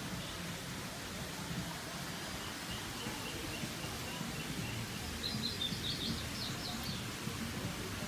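A bird chirping: a faint run of short high notes, then a louder, quicker burst of chirps about five seconds in, over steady low outdoor background noise.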